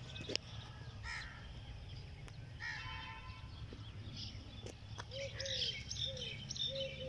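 Birds calling in the open: a harsh call about three seconds in, then a run of short repeated notes, about two a second, with higher chirps over them in the second half. A steady low hum runs underneath.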